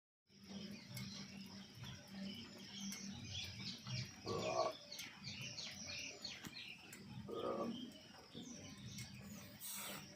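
Small birds chirping in quick falling notes, with two lower calls, over a row of faint, sharp, evenly spaced ticks: the tick of iron expanding and contracting with heat.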